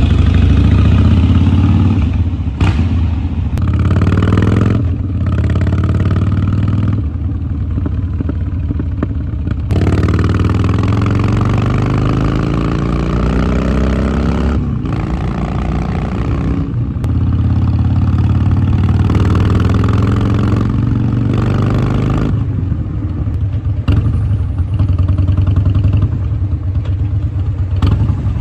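Harley-Davidson Dyna Street Bob's V-twin engine and exhaust on the move, the pitch climbing under throttle and falling away again several times with brief dips between pulls.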